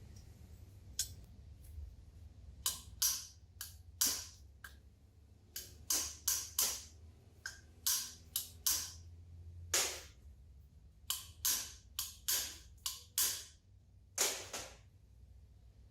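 Irregular sharp metallic clinks and knocks, each ringing briefly, from tools and engine parts being handled and set down, over a low steady hum.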